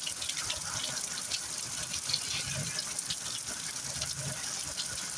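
Heavy rain pouring steadily, with a dense patter of close drops striking and splashing.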